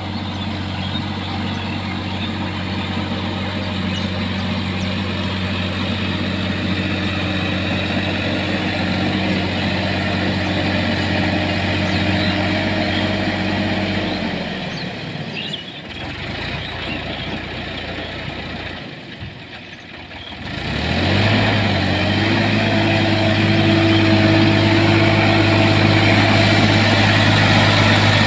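Sonalika tractor's diesel engine idling steadily. About halfway through, the engine note sinks and fades, then a few seconds later it rises again and settles back into a steady idle.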